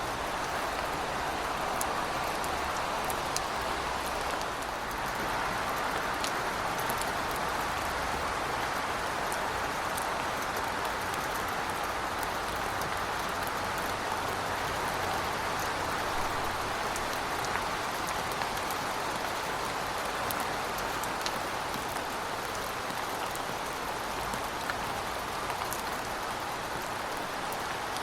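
Heavy rain falling steadily, an even hiss with scattered sharp drop hits.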